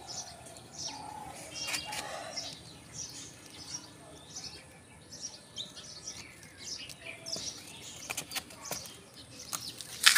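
Small birds chirping over and over in short high notes, with a few sharp clicks near the end.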